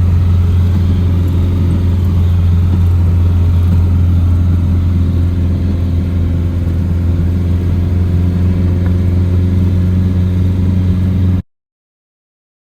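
A vehicle's engine running at a steady pace, a loud, even low drone with no revving. It cuts off abruptly near the end.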